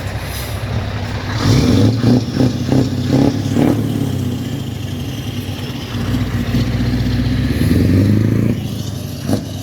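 Vehicle engines running, growing louder between about 1.5 and 4 s and again around 8 s, as on a vehicle passing close by.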